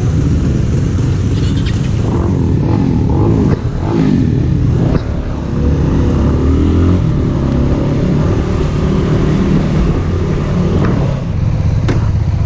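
Motorcycle engines running close by, with engine pitch rising and falling a few seconds in as the bikes are revved or pull past.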